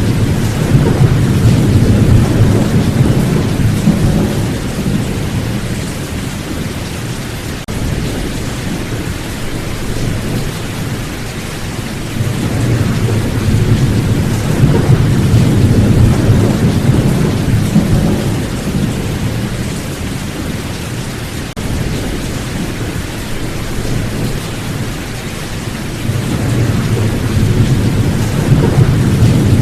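Steady rain in a thunderstorm, with low rolling thunder that swells and fades three times.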